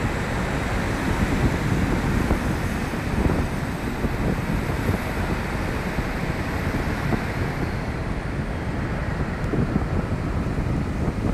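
Wind buffeting the microphone over the steady low running of a train in the station. A faint falling whine appears high up around the middle.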